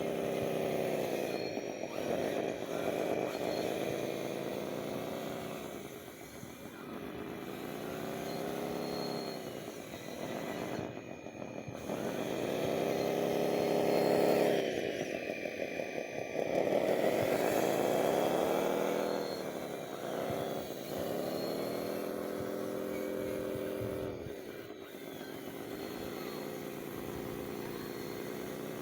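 The motor of a radio-controlled construction model running steadily. Its pitch drops and climbs back again and again, as if it is being loaded and released.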